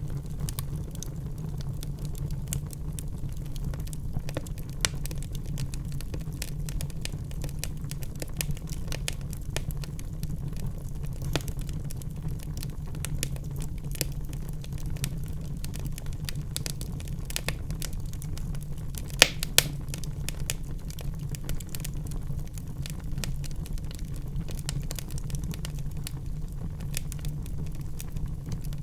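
Fireplace fire crackling, with many small snaps over a steady low rumble. Two louder pops come close together about 19 seconds in.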